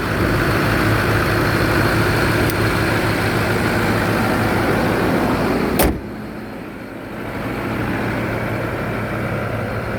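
A Ford 6.4 L Power Stroke V8 diesel idling steadily, an engine the owner calls nice and strong with no blow-by. About six seconds in there is a single sharp slam, after which the engine sounds quieter.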